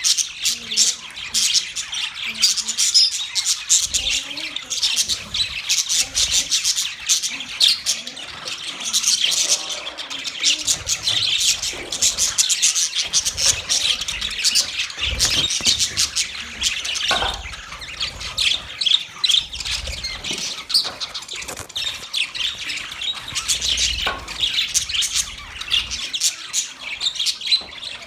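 Many budgerigars chattering and chirping at once in a dense, unbroken stream of rapid high chirps and squawks.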